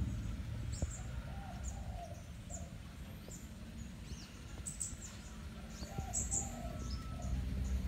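Birds chirping: many short high chirps throughout, with a few lower calls about a second and a half in and again about six seconds in, over a steady low rumble.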